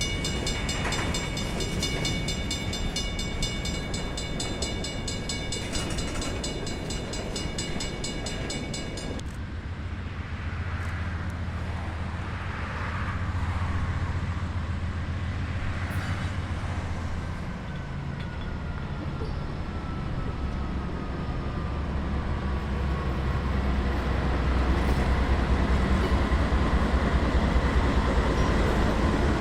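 Diesel freight train locomotives running, a deep engine rumble that grows louder near the end. For the first nine seconds a high whine made of many steady tones sits over it, and it stops abruptly.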